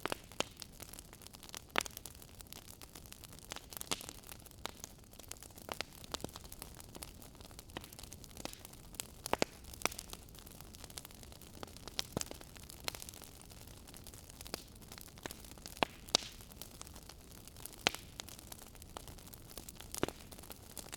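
Wood fire burning in a fireplace, crackling: irregular sharp pops and snaps over a steady soft hiss.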